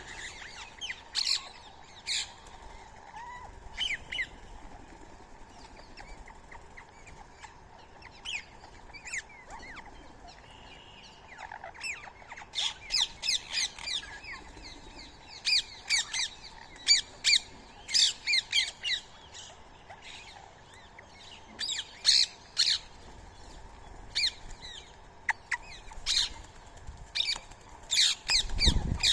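Indian ringneck parakeets calling: short, shrill squawks in quick bursts of several at a time, on and off throughout. A low thump comes near the end.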